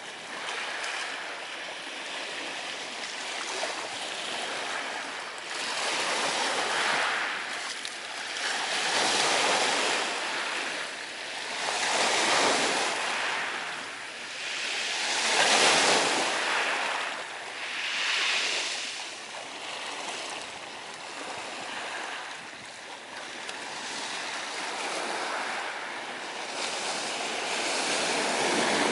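Sea surf washing onto the shore in slow swells that rise and fall every two to three seconds, strongest about halfway through and quieter for a stretch after.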